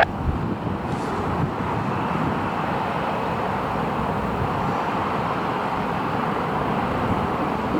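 Steady, even noise of aircraft engines running, with no distinct tones or changes.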